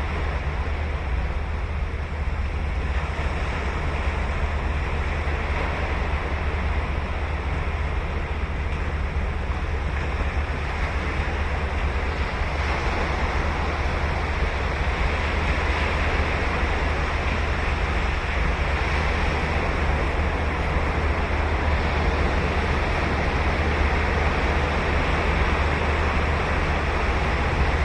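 Ocean surf breaking and washing continuously onto a sandy beach: a steady hiss of foam over a deep rumble, swelling slightly about halfway through.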